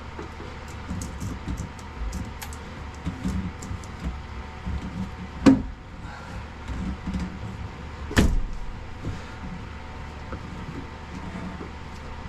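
Hand-tool work in a boat's engine room: small clicks and rustling over a steady low hum, with two sharp knocks about three seconds apart in the middle.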